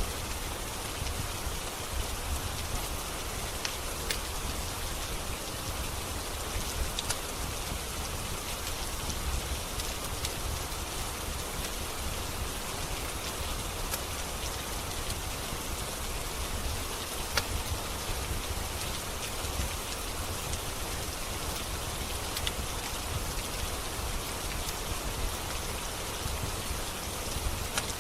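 Steady rain falling on a surface, with a low rumble underneath and occasional sharp pops from a crackling wood fire.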